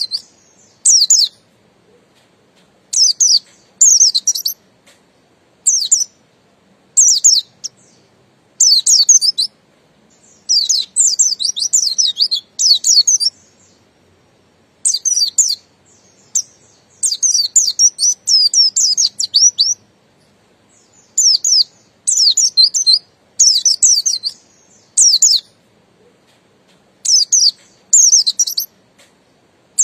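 Pleci buxtoni (Oriental white-eye, a Zosterops) singing: quick, high twittering phrases, mostly under a second long, repeated with short pauses, and twice running on for two to three seconds.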